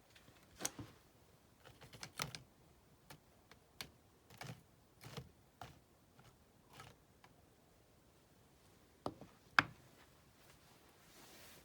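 A dozen or so scattered light clicks and knocks, like small objects being handled and set down, with one sharper knock near the end.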